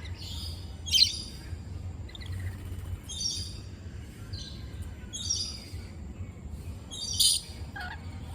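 Parrots calling: four short, high calls about two seconds apart, the loudest about a second in and near the end.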